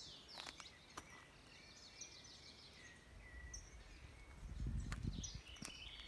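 Faint garden ambience of small birds chirping, with a brief low rumble about three-quarters of the way through.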